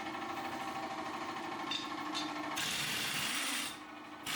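Car engine idling with a steady, rhythmic running. About two and a half seconds in, a hiss rises over it for about a second, the level drops, and a sharp knock comes at the very end.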